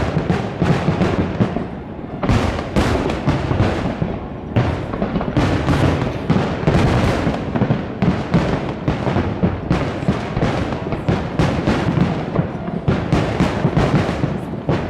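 Fireworks display in full barrage: shells bursting in quick succession, several booms and cracks a second, overlapping into a continuous rumble with crackle.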